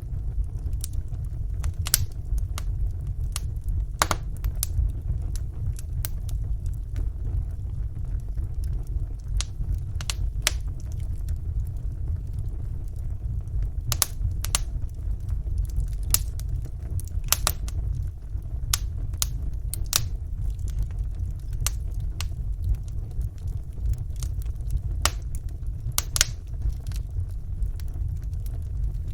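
Wood fire burning in a fireplace: a steady low rumble of flames with small, irregular crackles and pops from the burning logs.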